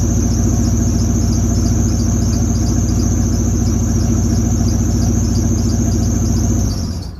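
Car engine idling steadily with its exhaust leak repaired, then switched off just before the end, the sound dying away within about half a second.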